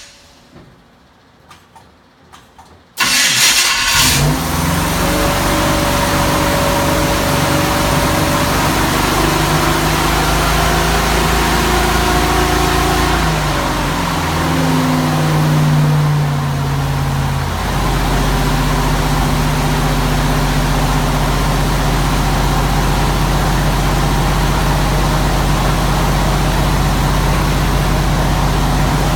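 1952 Ford panel truck's engine, starting for the first time after about twenty years unused, fires up suddenly about three seconds in. Its speed rises and falls for a while, then it settles to a steady idle.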